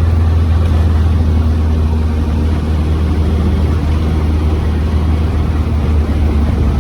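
Morgan +4 sports car driving at a steady speed: a constant low engine drone with road and wind noise.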